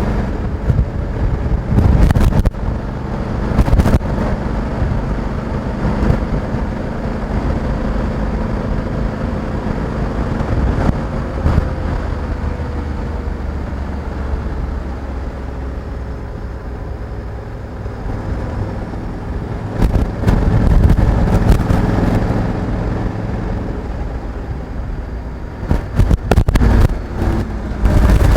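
Honda Africa Twin 1100 DCT's parallel-twin engine running under way, a steady low rumble whose note falls slowly midway. Short louder bursts of noise break in about two, four, twenty and twenty-six seconds in.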